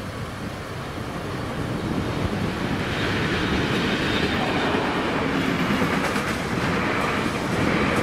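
Train approaching and passing on the rails, growing louder over the first three seconds, then running by steadily at close range.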